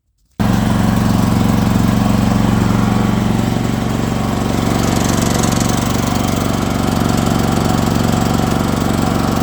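Champion 8750-watt portable generator's engine running at a steady, constant speed on its newly replaced carburetor. It comes in abruptly just after the start.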